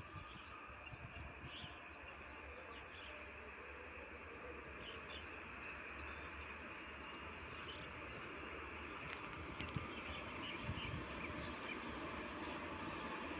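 Distant rumble of an approaching electric-hauled passenger train, growing slowly louder, with insects and birds chirping over it.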